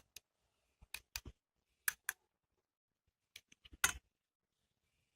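A spoon clicking and tapping against a bowl as ginger-garlic paste is spooned onto chicken: faint, sharp clicks in a few short clusters.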